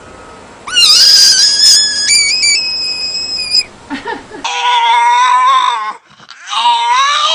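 An animal's loud, high-pitched scream, held for about three seconds and stepping up in pitch. Then come two shorter, wavering, bleat-like calls.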